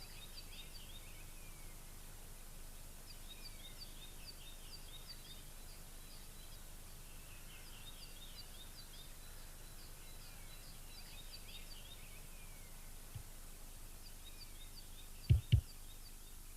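A small songbird singing: short phrases of high chirps, repeated every few seconds, over faint outdoor background noise. Near the end come two loud knocks in quick succession.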